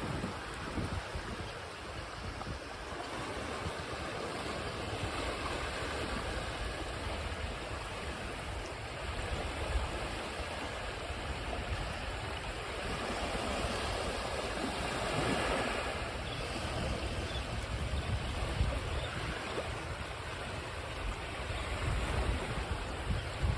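Ocean waves washing ashore in a steady wash of surf, swelling and easing slowly, with a stronger wave about fifteen seconds in, and a low rumble underneath.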